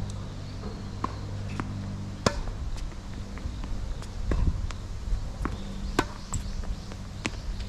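Tennis ball being hit and bouncing on a hard court: a series of sharp, irregular pops from racket strikes and bounces, the loudest about two seconds in, over a steady low hum.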